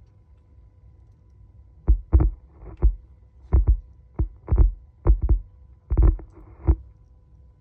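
Rear subwoofer of a Mercedes-AMG A35 giving out irregular deep thumps, about a dozen in five seconds starting about two seconds in, over a faint low hum. It is an abnormal noise that goes on for minutes after the engine is switched off: a fault in the car's audio system.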